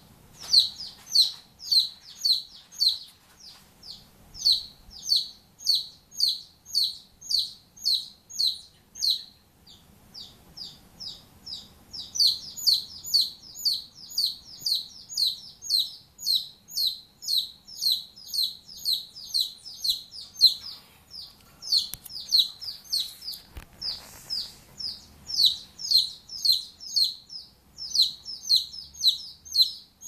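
A bird chirping over and over in short, high notes that drop in pitch, about two to three a second. The chirps go softer for a couple of seconds near the middle.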